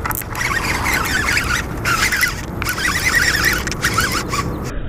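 Birds chirping and calling again and again, over a steady low rumble.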